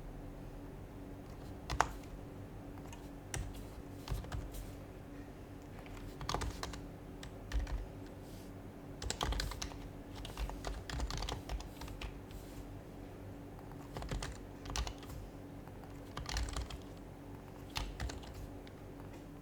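Typing on an HHKB Professional HYBRID Type-S keyboard, whose silenced Topre capacitive keys give soft, muted keystrokes. The keystrokes come in short irregular runs with pauses between them, and there is one sharper click about two seconds in.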